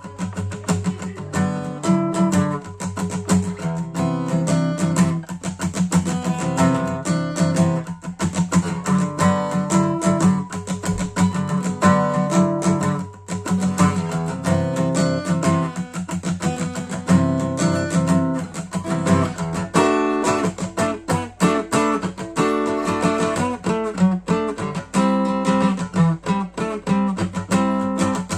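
Acoustic guitar playing a fingerpicked instrumental piece, with a run of quick picked notes and bass notes.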